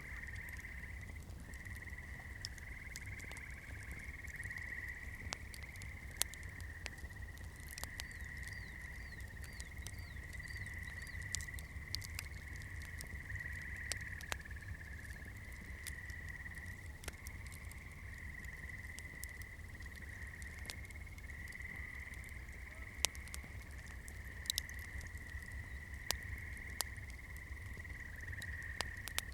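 Wood fire burning, with sharp crackles and pops at irregular intervals over a low steady rumble. A steady high-pitched chirring chorus runs in the background.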